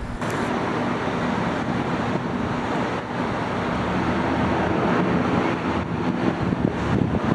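Airbus A330-900neo jet airliner's engines at takeoff power: a steady noise that grows slightly louder over several seconds.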